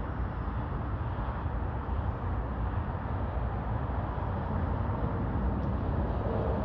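Steady low vehicle rumble with an even hiss above it.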